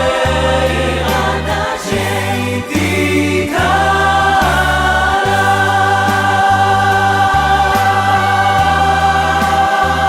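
Choir singing a Hebrew worship song over a steady bass line, with a long held note from about three and a half seconds in.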